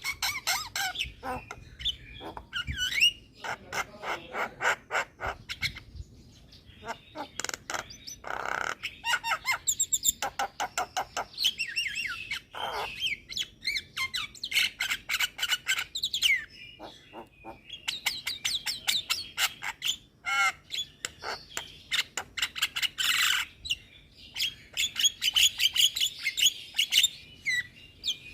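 Javan myna singing a varied, continuous song of fast clicking rattles, short whistled notes and harsh squawks.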